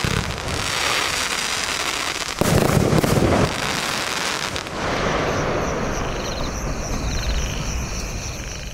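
Silver crackling fireworks from a 36-shot 25mm fan cake: a dense, continuous crackle with a heavier burst about two and a half seconds in.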